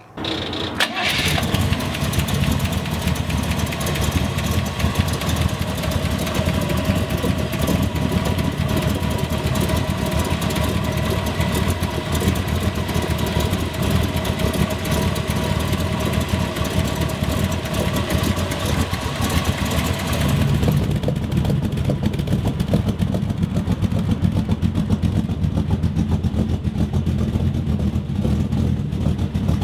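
Hot-rod V8 with tube headers coming in with a sudden rev about a second in, then idling steadily. From about twenty seconds in the sound turns deeper, with the exhaust note through its custom mufflers to the fore.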